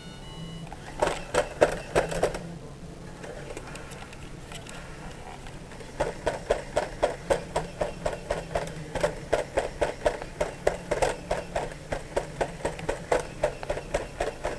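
Road Rippers toy lowrider truck's mechanism clicking rapidly and evenly, about four clicks a second: a short run about a second in, then a long steady run from about six seconds on.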